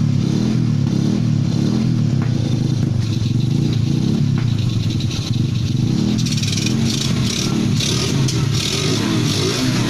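Yamaha Vega motorcycle's single-cylinder four-stroke engine running steadily, with a brighter rattling sound joining from about six seconds in.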